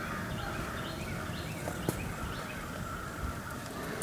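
Outdoor background ambience with a few faint, short bird chirps and one sharp click a little under two seconds in.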